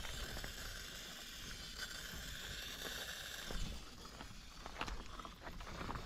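Faint steady hiss of coolant boiling in an overheated diesel engine's cooling system, which has sprung a leak. The hiss eases after about three and a half seconds, and a few light clicks follow.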